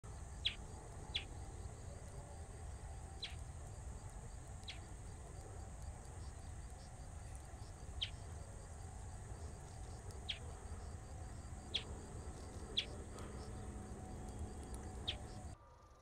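Bristled grassbird calling: about nine short, sharp single notes at irregular intervals, over a steady low background rumble.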